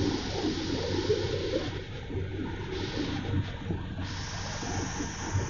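Steady rushing noise with a low, even hum beneath it, typical of a helicopter cabin in flight.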